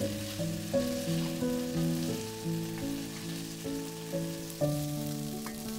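Beef cubes sizzling in hot oil in a pan, a steady frying hiss, under background music with a slow melody of held notes.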